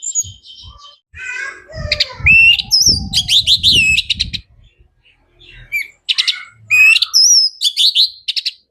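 Orange-headed thrush singing loud, varied whistled phrases with quick gliding notes, in two bursts: one starting about a second and a half in, the other about six seconds in. A low rumble runs under the first burst.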